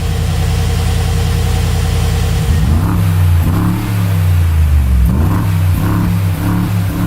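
Mercedes-AMG G 63 Brabus 800's 4.0-litre V8 idling steadily, then revved several times in quick blips from about two and a half seconds in, the pitch rising and falling with each blip.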